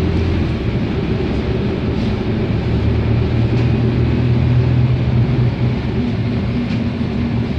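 Wright StreetLite DF single-deck bus running with a steady low drone whose pitch steps up a little about three seconds in, and a higher hum joins near the end. This is the weird sound the bus is making, and its cause is not known.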